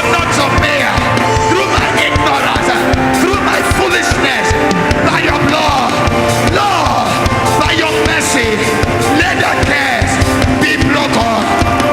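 Loud church band music with drums and held instrument tones, under many voices calling out and praying aloud at once.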